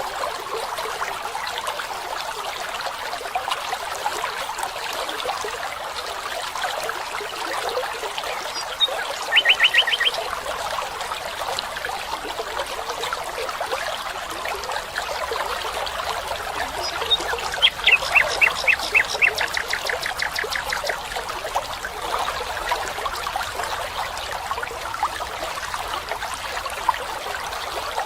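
Forest ambience: water trickling steadily, with a bird's short rapid trill about nine seconds in and a longer run of quick repeated notes from about eighteen to twenty seconds in.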